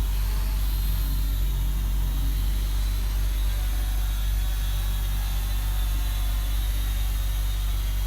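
Steady low rumble of road traffic and idling engines, with an even hiss over it and no distinct events.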